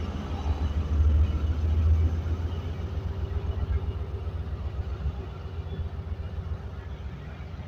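Pakistan Railways passenger coaches rolling slowly past on a departing train, a steady low rumble that is loudest a second or two in and then slowly fades.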